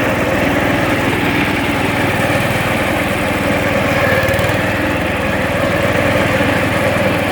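Gravely front-deck tractor's Kohler cast-iron engine running steadily, with the mower deck engaged.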